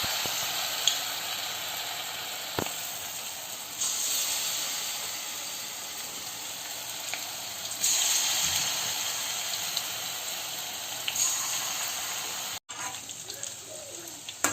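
Deep-frying sizzle of wheat-flour bonda batter in hot oil. The sizzle surges about every four seconds as each spoonful is dropped in, then slowly dies down. Near the end it cuts out briefly and comes back quieter with small crackles.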